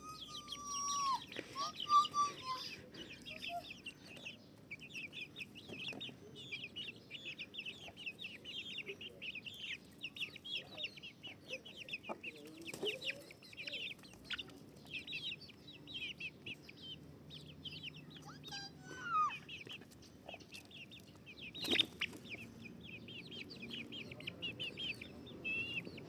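Chickens clucking amid a dense, unbroken chorus of short, high, rapid chirps, with a few lower gliding calls near the start and again about two-thirds of the way through. A sharp knock comes about 22 seconds in.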